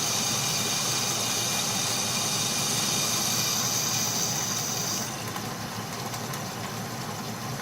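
Atlas metal lathe running while a boring bar takes a cut in the plate, with a steady high whine that drops away about five seconds in as the lathe runs on.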